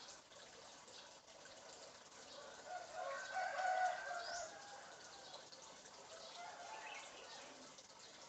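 A rooster-like crowing call, loudest from about two and a half to four and a half seconds in, over faint scattered chirps and clucks.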